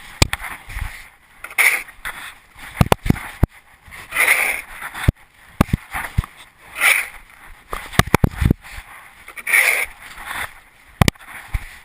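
1/8 scale RC monster truck running over rough ground: many sharp knocks and rattles, with short whirring bursts about every two and a half seconds.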